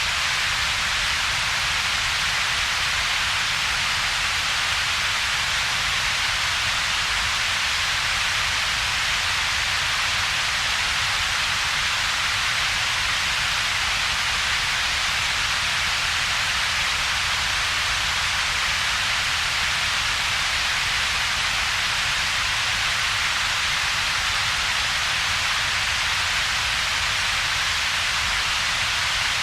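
Synthetic double-peaked coloured noise: a steady, unchanging hiss with a strong band in the upper-middle range and a weaker low rumble beneath, with a gap between them.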